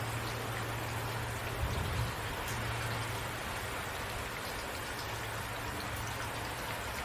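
Steady rain falling, an even wash of drops with a low steady hum underneath.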